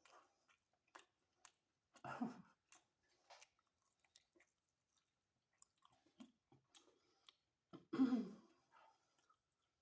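Close-miked chewing of pizza, with small wet mouth clicks throughout and two louder mouth sounds, one about two seconds in and one near the end.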